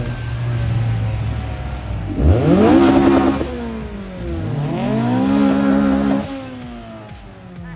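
Car engine revved twice from idle: each time the pitch climbs quickly, holds high for a second or two, then drops back.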